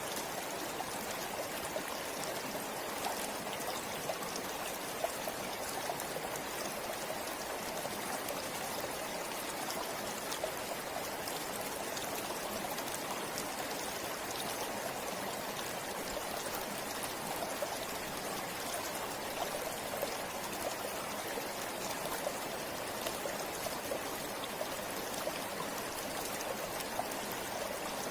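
Forest river flowing steadily over rocks, a continuous rushing with fine splashing and trickling.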